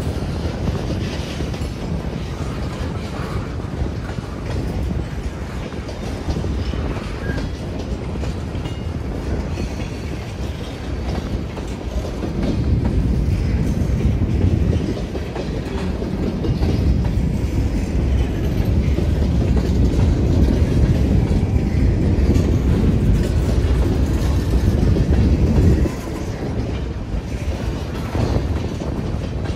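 Freight train boxcars rolling past a grade crossing in a steady low rumble. It grows louder about twelve seconds in and drops off suddenly about four seconds before the end.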